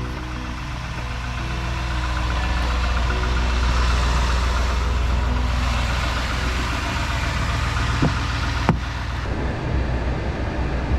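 Truck engine running steadily at idle, with two sharp clicks about eight seconds in.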